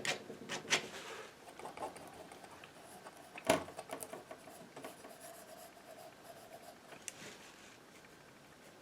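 Palette knife working oil paint: soft scrapes and light taps as paint is picked up and laid on, with one sharper tap about three and a half seconds in.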